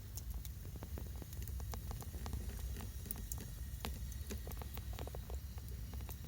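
Scattered, irregular small crackles and clicks over a steady low rumble.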